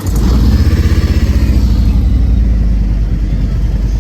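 A car engine fires up with a sudden loud, low rumble. It flares for a second or two, then settles into a steady, loud idle.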